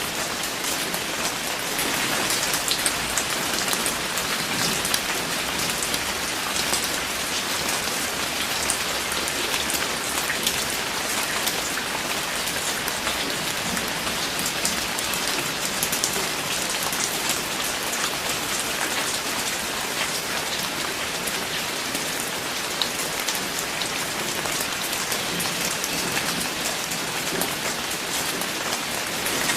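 Steady rain falling on a surface, a continuous hiss with many separate drop ticks, unchanging throughout.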